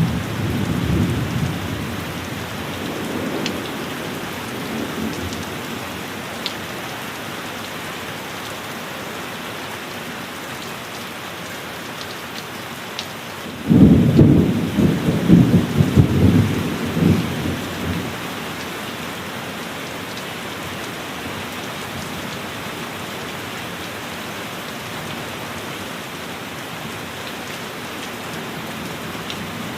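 Steady heavy rain with two rolls of thunder: one dying away at the start, and a sudden loud crack-and-rumble about halfway through that fades over a few seconds.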